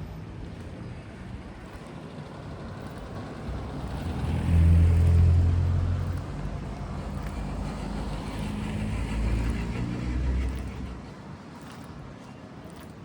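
A motor vehicle drives past with a low engine hum. It swells about four seconds in, is loudest a second or two later, and fades away over the next several seconds.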